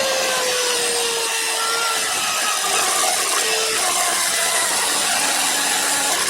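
Harbor Freight micro pencil grinder working as a tool post grinder on a lathe, its small stone grinding a lathe center: a steady grinding hiss with a faint whine that dips slightly in pitch in the first couple of seconds.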